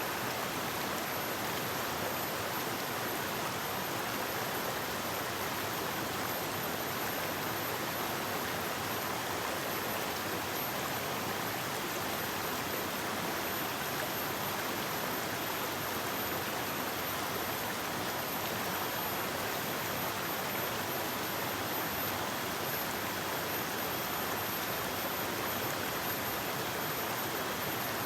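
Forest river flowing: a steady, unbroken rush of water.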